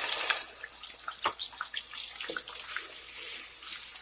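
Ground onion paste sizzling in hot oil in a deep pan as it is stirred with a wooden spoon: a strong hiss in the first half-second that thins into scattered crackles and pops.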